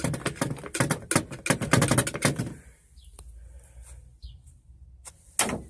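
A rapid, irregular run of clattering clicks and knocks for about two and a half seconds, then quieter, with one louder knock near the end.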